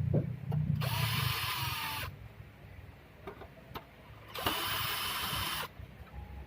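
A small electric drill or power screwdriver runs in two bursts of about a second each, with a few clicks in the pauses.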